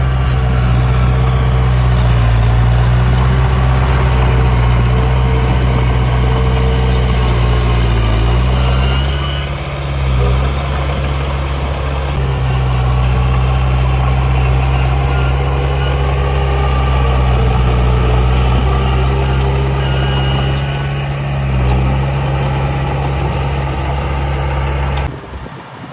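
Heavy diesel engine of earthmoving machinery running steadily with a deep, even hum, its note dipping briefly twice along the way. The sound drops off abruptly near the end.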